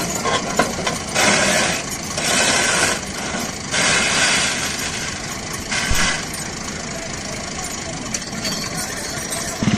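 Tractor engine running steadily, broken four times by short bursts of rushing noise.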